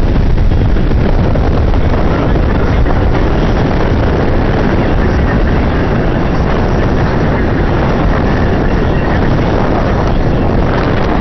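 Strong wind buffeting the microphone: a loud, steady rumbling roar, heaviest in the low end.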